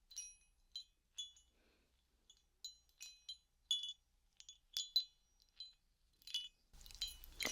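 Small heart-shaped bell ringing softly in about a dozen light, irregular jingles, each with bright high ringing tones.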